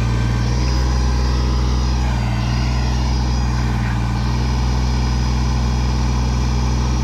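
Kubota tractor's diesel engine running steadily while its backhoe is being worked.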